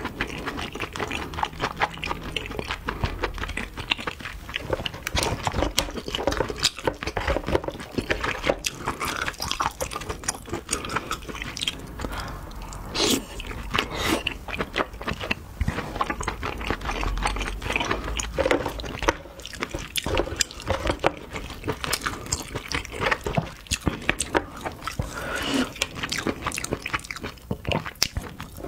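A person chewing mouthfuls of crab meat close to the microphone: a dense, continuous run of small mouth clicks and smacks.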